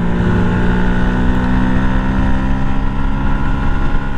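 Yamaha 125 cc single-cylinder motorcycle engine running at steady revs while cruising, with wind and road noise underneath.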